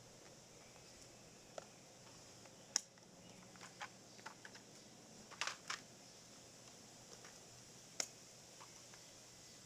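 Scattered light clicks and knocks, about a dozen of them at irregular intervals, over a faint steady background. The sharpest comes about three seconds in, a quick pair follows a couple of seconds later, and another sharp one comes near the end.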